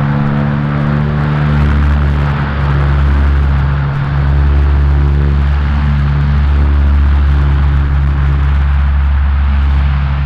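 Antonov An-12's four turboprop engines running at take-off power: a loud, steady propeller drone, several held low tones over a rushing noise.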